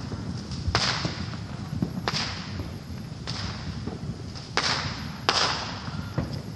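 Fireworks banging: about five sharp cracks at uneven intervals, each trailing off in a short echo.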